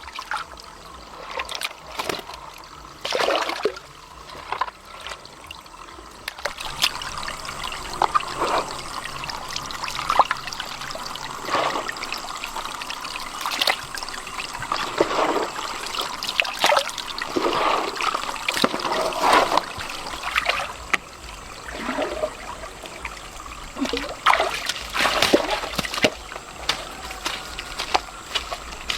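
Water trickling, with irregular splashes and sloshes throughout.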